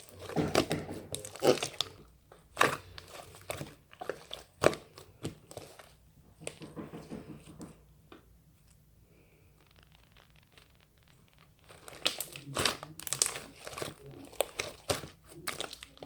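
Intermittent crinkling and crumpling of a thin crinkly material such as plastic or paper, in irregular bursts, with a quiet stretch in the middle.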